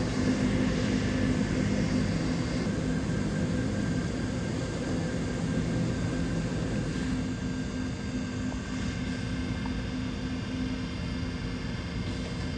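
DMG Mori DVF 5000 five-axis CNC machining centre running: a steady mechanical hum with several held tones, easing a little in level over the seconds.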